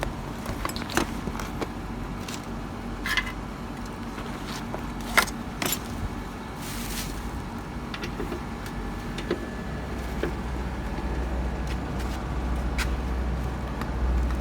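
Scattered clicks and light knocks of hands working with tools and parts, over a steady low hum that grows louder about ten seconds in.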